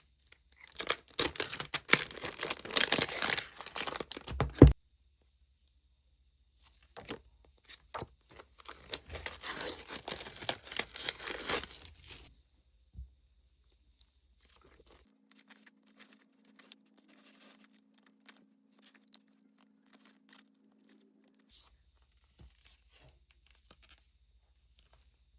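Packaging being torn open by hand: two spells of tearing and crinkling, each a few seconds long, followed by a few faint light ticks.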